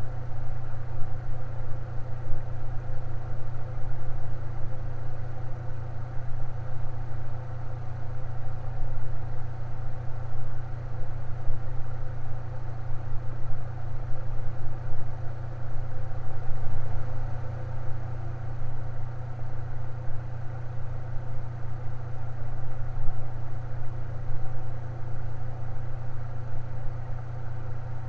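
Electric fan running steadily: a strong low hum with a whir of several steady tones above it.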